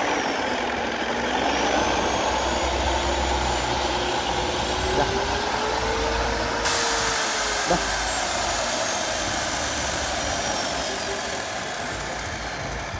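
Electric paint mixer's motor running steadily, its pitch slowly rising and falling as the speed shifts.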